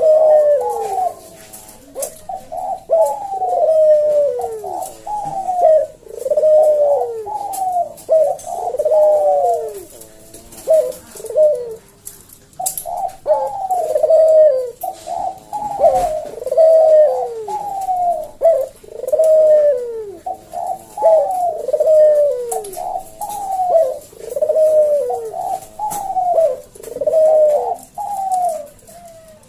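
Puter dove (domestic Barbary dove) cooing its slow 'kuk deruk' song: phrases of falling coo notes, one every second or two, with a short pause about halfway through.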